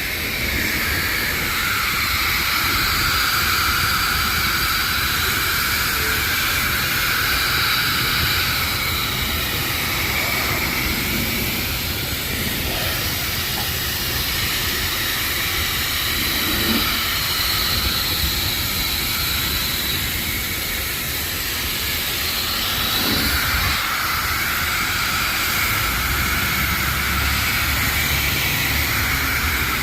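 High-pressure rinse wand of a self-serve car wash spraying water onto a car: a steady hissing spray whose tone changes as it moves across the car's surfaces.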